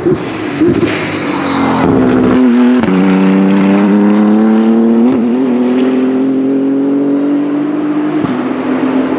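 BMW M4 GT3 race car's twin-turbo straight-six running hard at speed, its engine note breaking sharply in pitch at gear changes about three seconds and five seconds in.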